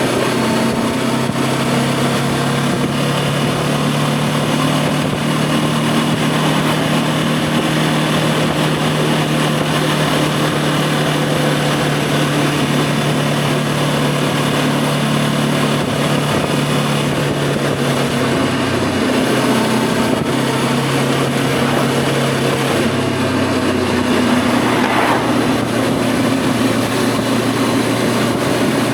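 Voge 525 DSX motorcycle's parallel-twin engine running at a steady cruise while riding. Its note steps lower twice in the last third, as the rider eases off or changes gear.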